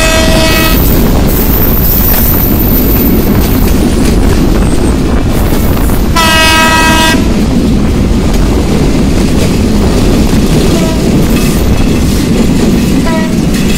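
Bangladesh Railway's Kurigram Express passenger train running at speed close alongside: a steady heavy rumble mixed with wind noise from the moving motorbike. Two horn blasts of about a second each sound at the start and about six seconds in, with a couple of short faint toots near the end.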